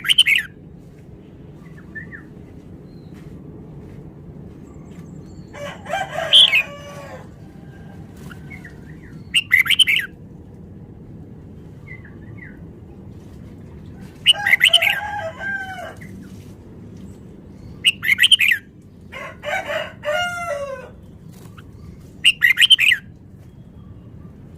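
Red-whiskered bulbul singing in short, loud, quick phrases that come every few seconds, some bright and brief, some longer with warbling pitch changes, over a steady low hum.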